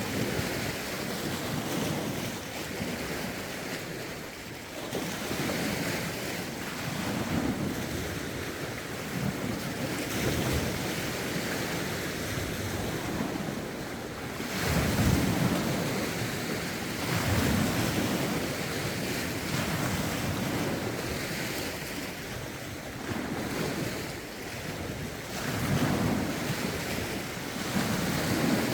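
Lake waves lapping and breaking against the shore, surging every couple of seconds, with steady wind and gusts buffeting the microphone.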